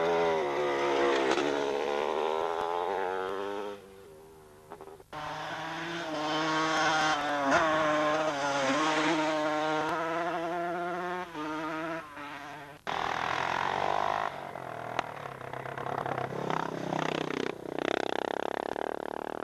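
Two-stroke motocross bikes at racing speed, engines buzzing and rising and falling in pitch as the riders work the throttle and shift through bends. The sound dips about four seconds in and breaks off sharply about thirteen seconds in as one bike gives way to the next.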